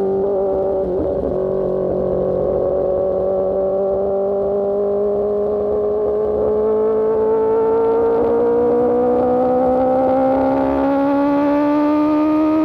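A sport motorcycle's engine through an Austin Racing GP1R exhaust, riding on steady throttle. Its pitch dips slightly, then climbs slowly and evenly as the bike gathers speed in one gear.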